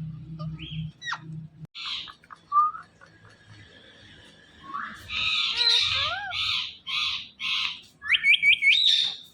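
Indian ringneck parakeet calling: a few short chirps, then a run of harsh squawks about two a second, ending in a quick series of four rising whistles.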